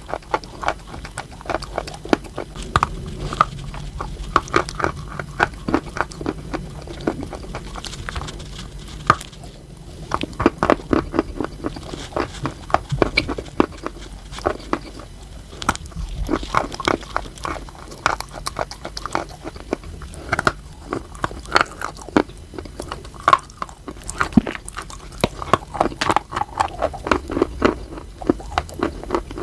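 Chalk being bitten and chewed close to the microphone: a dense, irregular run of sharp crunches and crackles, with a couple of brief pauses.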